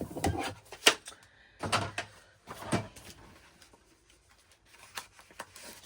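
Paper and small craft items being handled on a work table: a sharp click about a second in, soft knocks near two and three seconds, and light rustling later.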